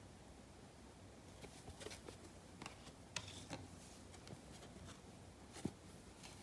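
Faint, scattered clicks and short rustles of trading cards and card packs being handled, starting a little over a second in.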